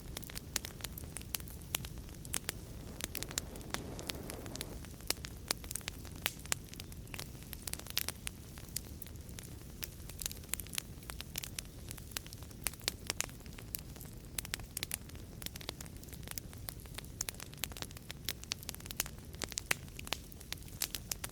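Wood fire crackling in a fireplace: a steady low rush of flames with frequent sharp pops and snaps, and a brief hissing swell a few seconds in.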